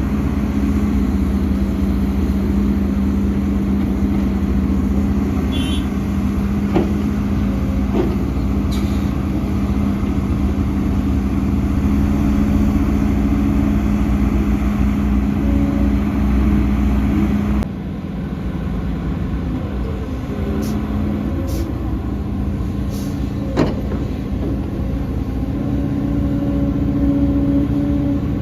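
Heavy diesel earthmoving machinery running steadily, with a few sharp knocks. The sound drops and changes character abruptly about two-thirds of the way through.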